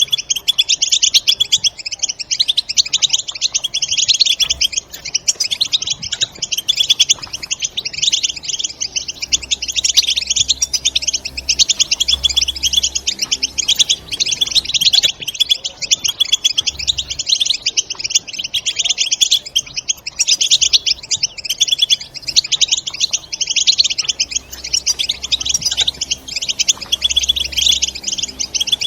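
European goldfinches' rapid twittering chatter (the 'batbata' call), fast notes running on without a break.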